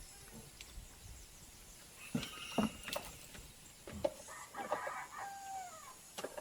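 A rooster crowing once, a drawn-out call that drops in pitch at the end, preceded by a few sharp knocks.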